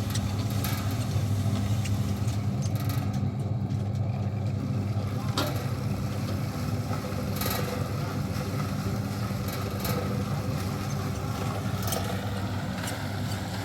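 A motor or engine running steadily with a low, even hum, with a few light knocks.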